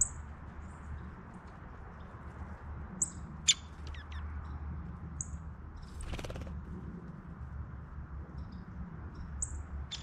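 Small birds giving short, high chirps at scattered moments, the sharpest about three and a half seconds in. A brief flutter of wings comes about six seconds in, all over a steady low hum.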